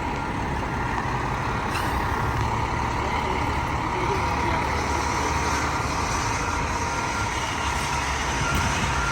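A large diesel vehicle's engine running with a steady low rumble, mixed with street traffic noise, a steady high tone and a few short beeps.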